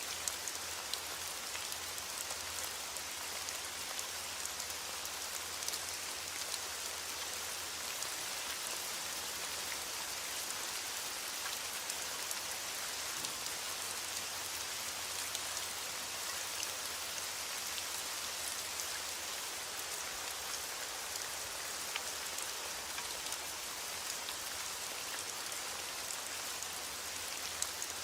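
Steady rain falling, a even hiss with scattered sharp ticks of individual drops striking a surface.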